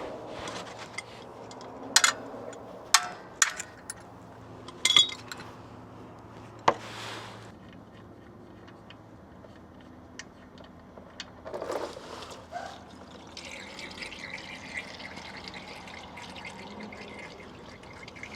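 A few sharp metallic knocks and clicks from tools, then, about two thirds of the way in, a steady stream of liquid running: old engine oil draining from a Honda Civic's oil pan into a drain pan.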